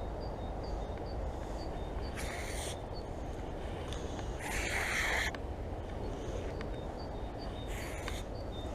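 Steady low outdoor background rumble, with a short high chirp repeating about three times a second and three brief rustling or scraping noises, the loudest about halfway through.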